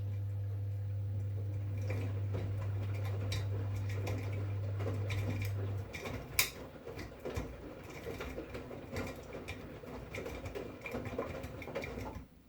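2011 V-Zug Unimatic SL washing machine running a 40 °C wash. A steady low hum cuts out about six seconds in, while laundry sloshes and clicks in the drum from about two seconds on and stops abruptly near the end.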